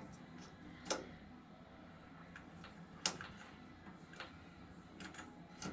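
A few short, sharp clicks and light knocks, about five spread over several seconds, the loudest about three seconds in, over a faint low hum.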